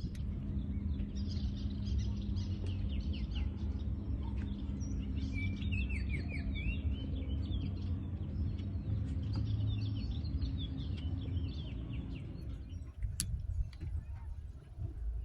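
A flock of small birds chirping, many short quick calls overlapping, which thin out near the end. Underneath runs a steady low hum and rumble that stops about 13 seconds in.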